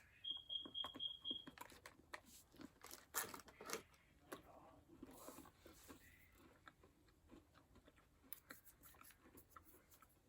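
Faint crunching and chewing as a thin Oreo cookie is bitten and eaten, the crunchy strokes thickest in the first few seconds. A short run of quick high beeps sounds near the start.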